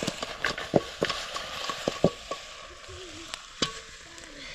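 Food frying in a pan, the sizzle dying down, with a cooking utensil knocking and scraping against the pan several times as it is stirred.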